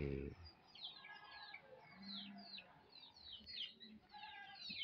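Faint, high chirps from small birds, each falling in pitch, repeated many times in quick succession.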